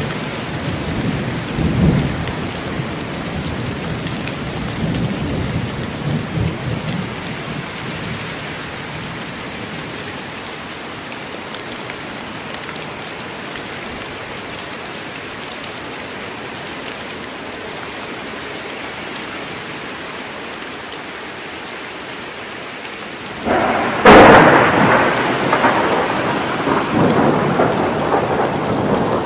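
Steady heavy rain in a forest during a thunderstorm. Low thunder rumbles and fades over the first several seconds. A sudden loud thunderclap comes about 24 seconds in and rumbles on to the end.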